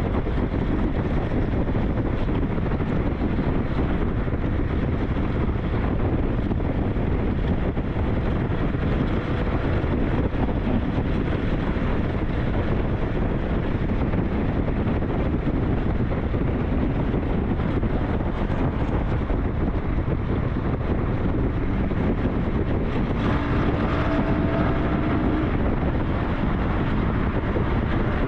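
SYM NH T 200 motorcycle running while ridden, with steady wind buffeting on the microphone covering most of the engine. A faint engine tone rises briefly near the end.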